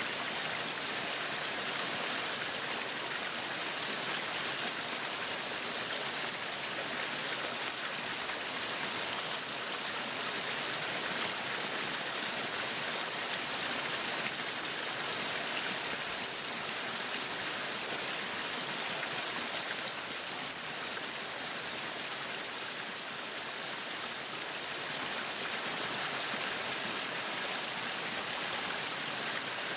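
Meat sizzling on a yakiniku grill: a steady, dense sizzle.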